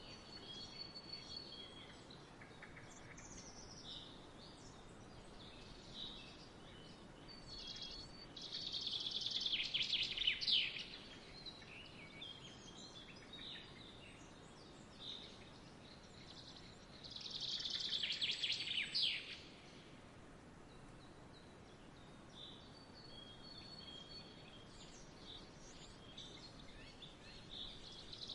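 Songbirds chirping and whistling over a faint steady outdoor hiss, with two louder bursts of rapid chattering trills, about 8 seconds in and again about 17 seconds in.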